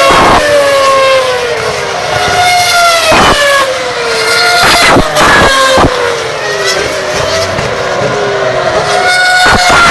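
Formula One cars' 2.4-litre V8 engines running at high revs, their pitch falling and then starting again higher, over and over, with several engines heard at once. A few short, sharp noise bursts cut in near the start, around the middle and near the end.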